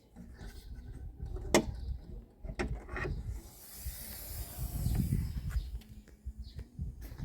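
Mechanical handling noises: irregular knocks and rubbing, a sharp click about one and a half seconds in, and a hissing scrape in the middle.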